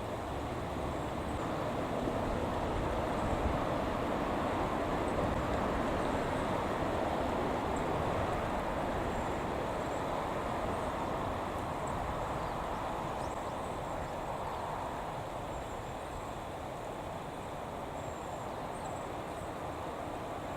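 A steady rushing noise that swells slowly and eases off again, with faint, short, high bird calls over it.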